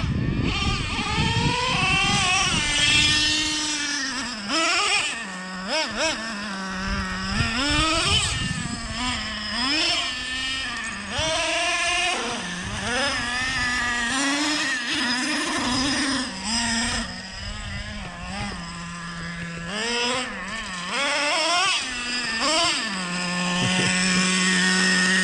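Small nitro RC truck engine revving up and down over and over, its pitch rising and falling every second or two, then settling to a steady idle near the end.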